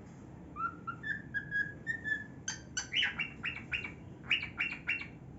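Male cockatiel singing: a phrase of clear whistled notes that step up in pitch, then from about halfway a quick run of short chirps, several a second.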